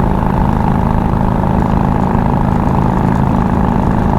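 2006 Harley-Davidson Street Glide's 88 cubic inch fuel-injected V-twin running steadily at highway cruising speed through a loud exhaust, with wind noise on the helmet microphone.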